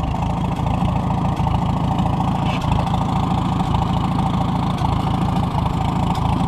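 McCormick W-4 tractor's four-cylinder engine running steadily at a low, even speed.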